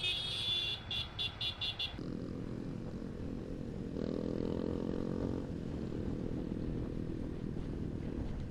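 Motorcycle engine running steadily while riding. Over the first two seconds a high-pitched beeping horn pulses rapidly, about four or five beeps a second.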